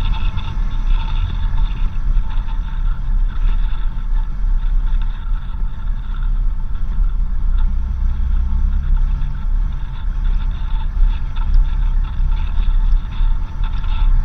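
A 4x4 vehicle driving on a dirt road, making a loud, steady low rumble of engine and road noise, with scattered small rattles and knocks.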